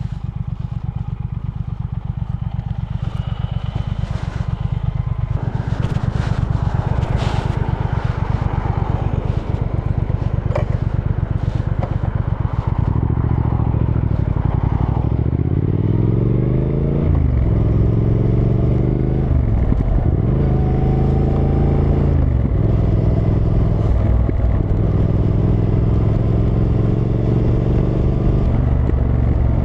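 Triumph Thruxton R's 1200 cc parallel-twin engine idling with an even pulsing beat, with some clattering and scraping over it. Nearly halfway through it pulls away and accelerates up through the gears, the revs climbing and then dropping at each of several upshifts.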